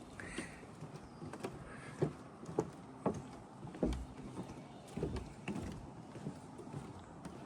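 Footsteps of a person walking at an even pace, about two steps a second, each a short dull thump.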